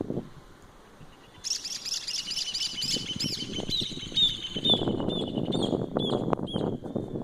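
A songbird singing: a fast run of high, arching chirps that starts about a second and a half in, then a rapid trill, with a low, uneven rustling noise underneath in the second half.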